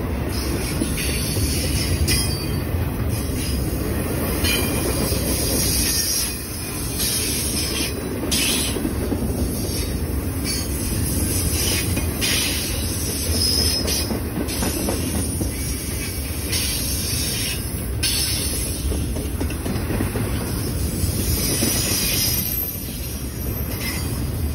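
Intermodal freight train of container well cars rolling past at speed close by: a steady heavy rumble of wheels on rail, with brief high-pitched bursts of wheel noise every couple of seconds.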